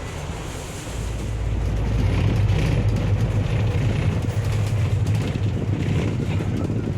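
Low, steady rumble of a road vehicle in motion, heard from on board, growing louder about a second in.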